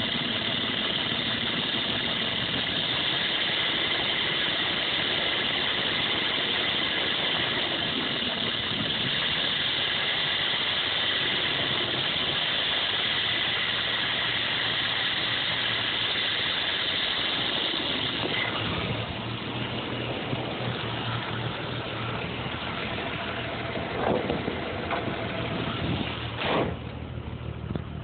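1987 Jeep Cherokee/Wagoneer Limited engine idling roughly. A steady hiss in the sound drops away about two-thirds of the way through, leaving a lower engine hum, and a couple of sharp clicks come near the end.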